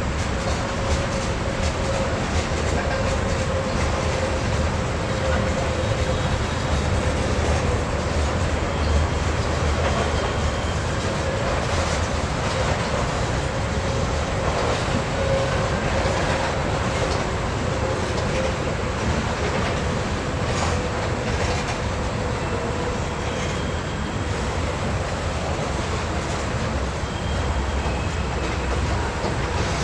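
Freight train cars rolling past: a steady rumble of wheels on rail with a run of clicks from the rail joints, and a faint wavering wheel squeal.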